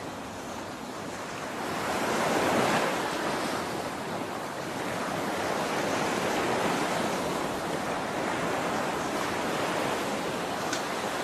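Steady rush of water from a waterfall, an even noise that swells a little about two seconds in.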